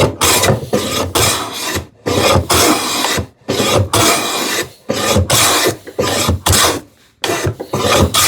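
Wooden jack plane cutting shavings off a drawer-box piece: about ten quick strokes, each under a second, with short pauses between.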